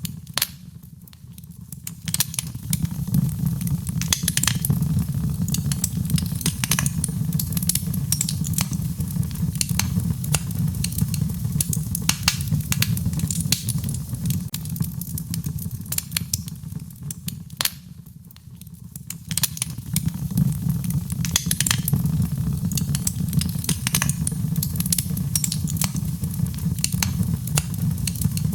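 Wood fire in a fireplace crackling and popping, with many sharp snaps over a steady low rumble of rain. The sound fades down briefly twice, once about a second in and again about two thirds of the way through.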